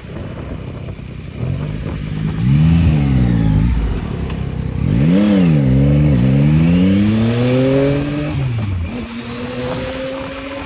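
Yamaha MT-09 three-cylinder motorcycle engine under hard acceleration: the revs climb and drop sharply at each gear change in two bursts, the throttle closes near nine seconds, and the note then rises slowly again. Wind noise runs underneath.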